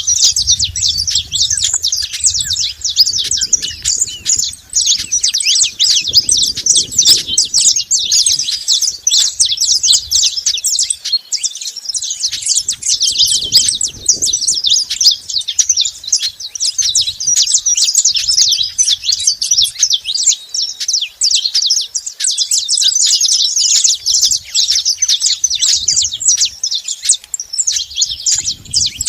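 Saffron finches chirping and singing nonstop, a dense stream of rapid high notes. A low rumble comes and goes underneath.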